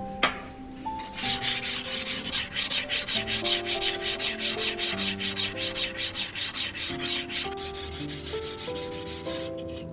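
A sharp click, then rapid back-and-forth hand sanding strokes, about six a second, for around six seconds before they fade near the end. Background music plays underneath.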